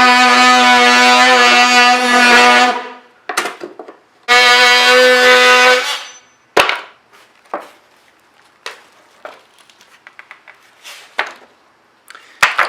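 A power tool's electric motor running with a steady whine. It stops about three seconds in, runs again briefly from about four to six seconds, then gives way to scattered knocks and taps.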